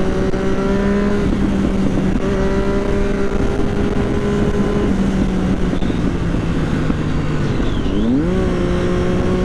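Motorcycle engine running steadily while riding, with wind noise. Its pitch rises slowly, then dips and climbs back up about eight seconds in.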